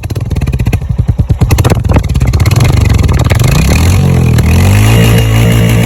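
Royal Enfield Hunter 350's single-cylinder engine running, first as a quick train of exhaust pulses, then revving up about three seconds in and holding at higher revs.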